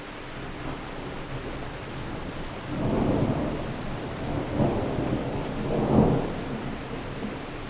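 Steady rain with a rumble of thunder rolling in about three seconds in, swelling in three surges, the last one the loudest, then dying away near the end.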